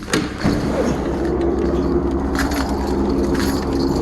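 Helicopter hovering overhead: a steady engine drone with a rapid low rotor pulsing, coming up louder about half a second in. A sharp click right at the start.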